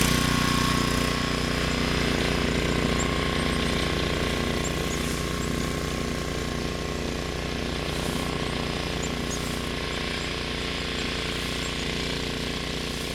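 An engine running steadily at a constant speed, its low hum unchanging throughout.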